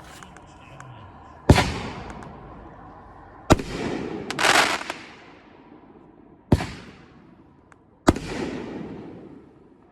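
Nine-shot consumer firework cake firing: four loud booms spaced about one and a half to three seconds apart, each trailing off slowly, with a longer noisy burst between the second and third.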